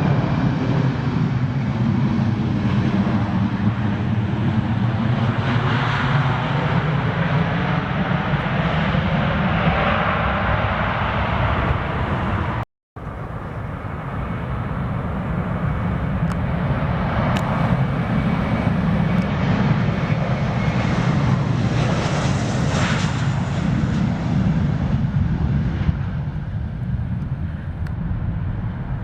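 Jet aircraft engines roaring as a plane passes close by, with a faint high whine over the rumble. The sound cuts out abruptly for a moment about halfway through, then another jet's roar builds and swells before easing off near the end.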